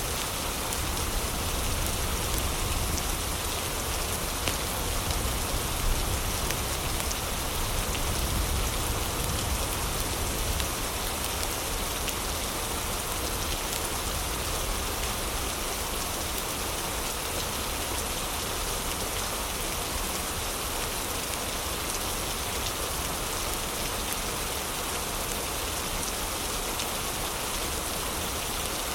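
Heavy rain falling steadily: an even hiss of drops with a low rumble underneath.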